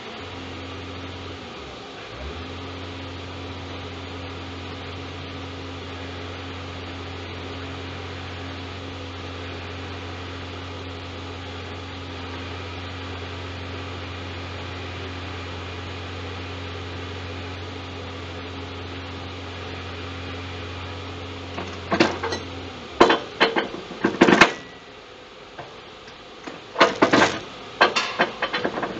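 Steady low machine hum from the truck and its loader crane's hydraulics, with a brief dip about two seconds in. It cuts off a little after twenty seconds in, and a run of sharp metallic knocks and clatters follows.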